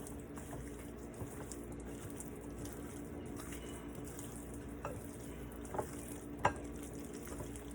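Seasoned raw chicken wings being mixed in a bowl: a soft, steady wet rustle, with a few light knocks against the bowl about five to six and a half seconds in. A faint steady hum runs underneath.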